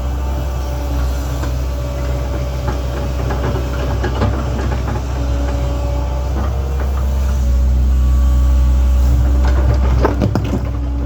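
Link-Belt 2700 hydraulic excavator's diesel engine running steadily, with scrapes and knocks of the machine working dirt through the middle and a cluster of sharper knocks near the end.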